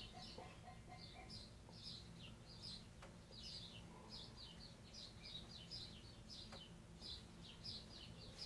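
Faint small bird chirping over and over, short high chirps two or three a second, over a low steady hum.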